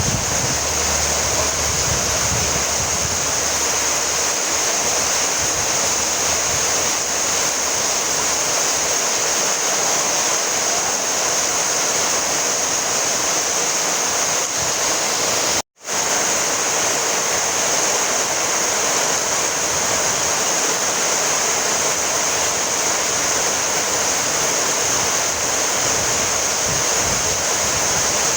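Steady heavy rainfall, an even hiss of water with no distinct drops standing out. It cuts out completely for an instant about halfway through, then resumes unchanged.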